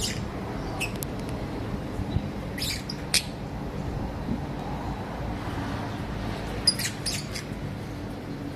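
Lovebirds giving short, sharp chirps and squawks in a few brief clusters, over a steady low hum.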